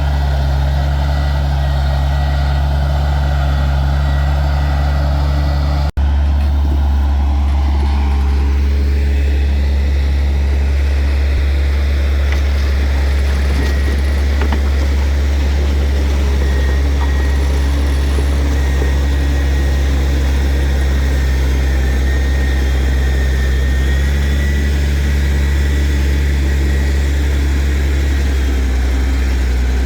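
Heavy earthmoving machine's diesel engine running steadily with a deep, constant drone. About six seconds in there is a brief break, after which the higher part of the engine noise changes.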